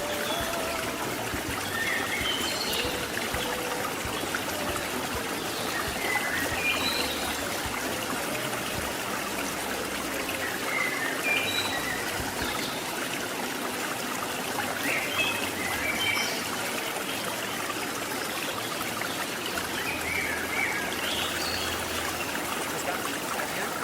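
Shallow river water flowing and trickling over rocks in a steady rush, with short high chirps now and then.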